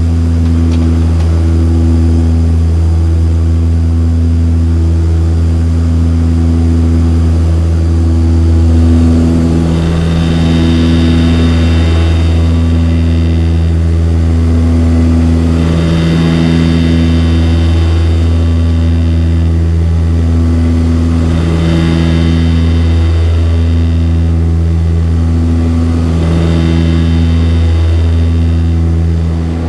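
Cabin sound of a Saab 340B in flight beside its propeller, from the General Electric CT7 turboprop and propeller: a loud, steady low drone with a pulsing hum above it. A higher whine swells and fades about every five to six seconds.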